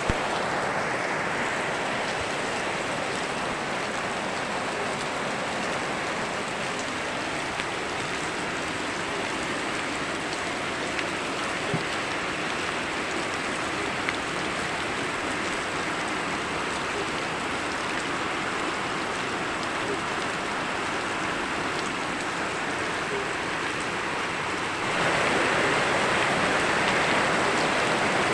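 Steady rain falling together with running stream water, an even hiss with a few sharp drip ticks. Near the end it suddenly becomes louder and brighter.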